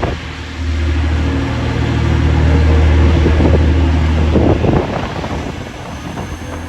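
A train's engine running with a steady low drone that gives way to rougher noise near the end and then drops away.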